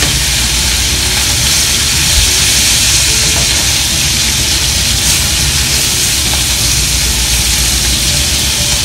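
Chunks of salmon searing in hot oil in a frying pan: a steady sizzle.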